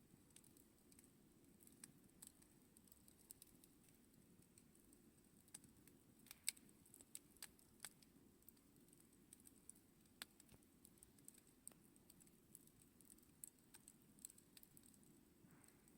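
Campfire crackling: scattered irregular sharp pops and ticks, one clearly louder about six and a half seconds in, over a faint steady low rush of the flames.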